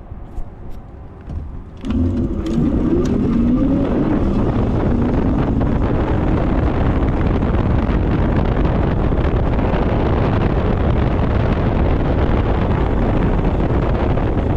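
A few light clicks, then about two seconds in a loud, steady rush of wind on the microphone sets in as the e-bike gets up to speed. A wavering, rising whine lies under it for a couple of seconds.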